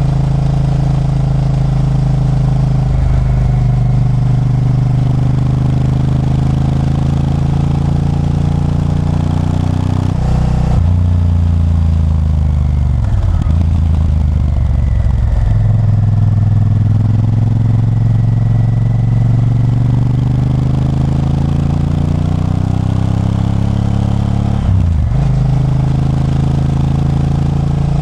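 Honda Varadero 1000's V-twin engine running under way. About ten seconds in the note breaks briefly and drops in pitch, then climbs steadily for several seconds before another brief break near the end, like a gear change.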